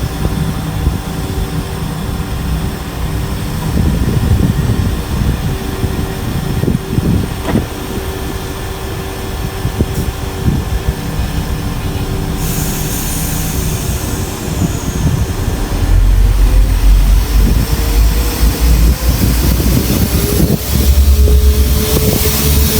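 Diesel train moving through a station: steady engine tones over a low rumble, growing louder about two-thirds of the way in, with a rising engine note near the end.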